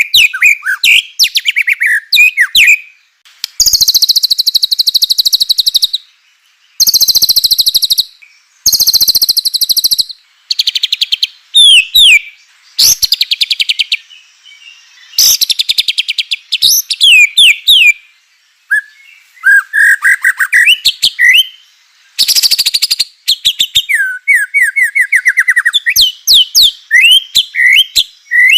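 White-rumped shama (murai batu) singing loudly in full 'gacor' song: bursts of very fast rattling notes a second or two long, alternating with shorter whistled phrases and brief pauses. This rattling 'kretekan' is the aggressive song used to provoke other murai batu into singing.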